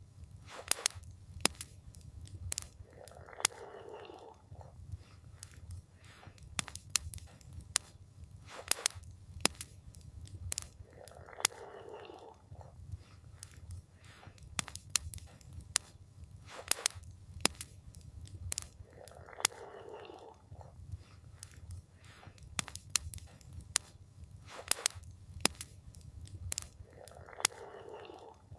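Campfire crackling, with frequent sharp pops and snaps over a low steady rumble. A soft noisy swell comes in about every eight seconds.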